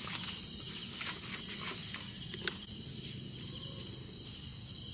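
Crickets chirping steadily in a high, even trill, with a few light clicks in the first half and a sharper click about two and a half seconds in.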